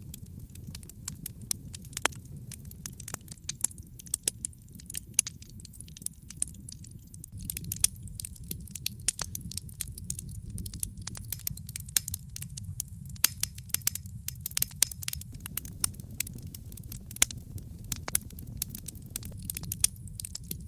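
Wood fire crackling in a fireplace: many small irregular pops and snaps over a steady low rumble of the flames, the pops growing denser after the first few seconds.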